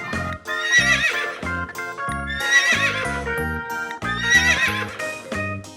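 A horse whinnying three times, each a quavering call about a second long, over background music with a steady beat.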